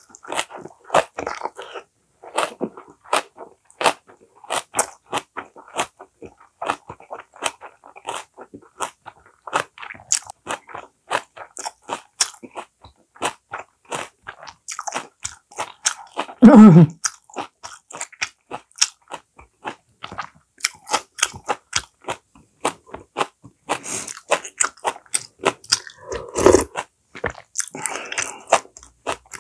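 Close-up chewing of a mouthful of steamed pumpkin-leaf ssam with seasoned lettuce, a steady run of soft clicking chews about two or three a second. About halfway through there is one louder sound that falls in pitch, and another louder low sound comes near the end.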